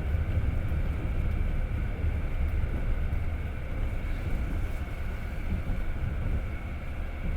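Passenger train running along the rails, heard from inside the carriage: a steady low rumble with a faint steady higher hum, and no separate wheel clacks standing out.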